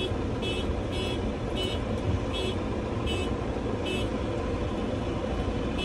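Tractor engine running steadily, with a short high-pitched chirp repeating about every 0.7 seconds that stops about four seconds in.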